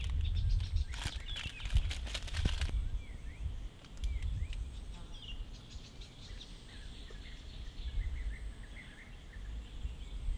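Small birds chirping in short, scattered calls over a low wind rumble. A flurry of rustling and clicking fills the first few seconds.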